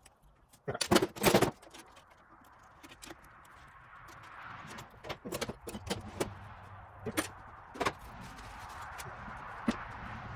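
Scrubbing out the inside of an old drill press's arbor hole: a burst of loud metallic clatter about a second in, then a steady rough rubbing that builds up, with scattered clicks and knocks.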